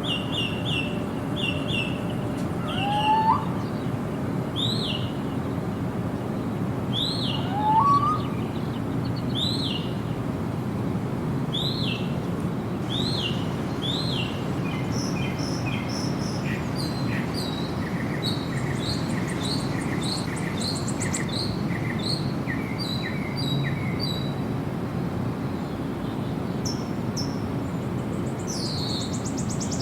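Several birds singing: short repeated high chirps about once a second, with two louder rising whistles early on and, from about halfway, a faster series of notes at about two a second. A steady low background rush lies underneath.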